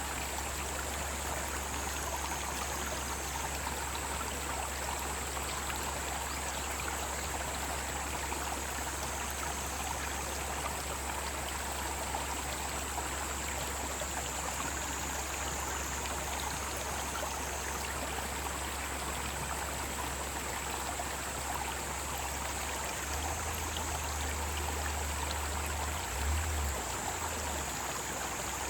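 Mountain stream flowing in a steady, unbroken rush, with a continuous high-pitched chorus of summer cicadas above it.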